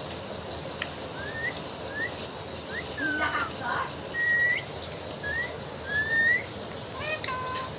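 Pet rose-ringed parakeet (tiya) whistling: a string of short, rising whistles, one held longer about four seconds in, with a brief scratchy call just after three seconds.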